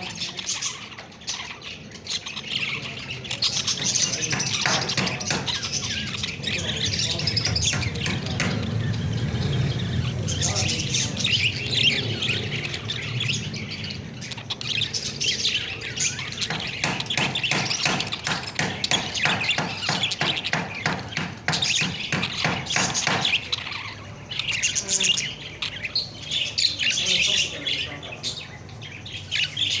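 Several parrots chirping and squawking together in a dense, continuous chatter of short high calls.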